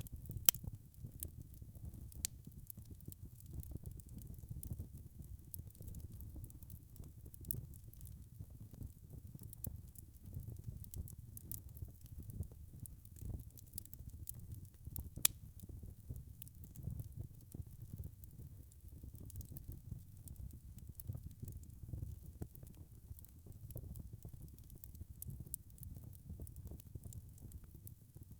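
Wood fire burning in a fireplace: a low steady rumble of flames with scattered sharp crackles and pops, two of them louder, about half a second in and about halfway through.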